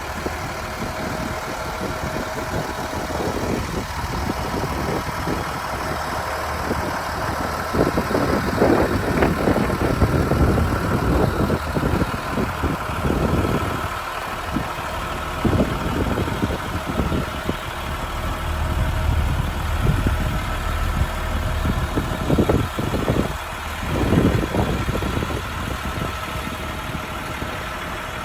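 A Ford F750 Super Duty truck's engine idling steadily, with irregular bursts of noise over it.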